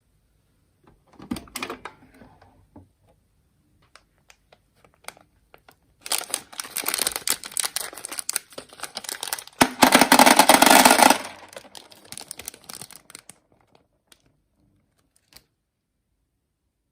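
Candy being handled: dense crinkling and rattling clicks, in a short burst early on and then a longer run that is loudest about ten seconds in before dying away to scattered clicks.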